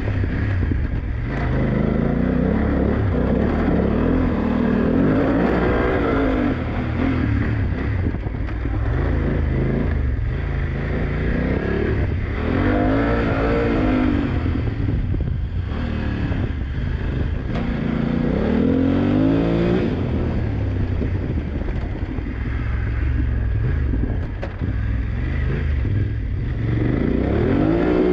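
BMW F900GS's parallel-twin engine ridden hard off-road, revving up and dropping back over and over as the throttle is opened and closed through the course, its pitch climbing several times, over a steady rumble.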